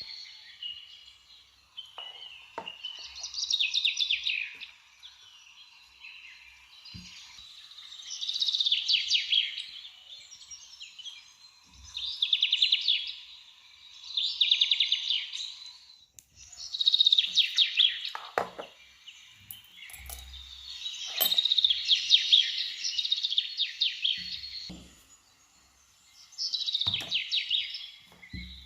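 A songbird singing in separate phrases of fast, high trills, about seven phrases each one to three seconds long, with short pauses between them.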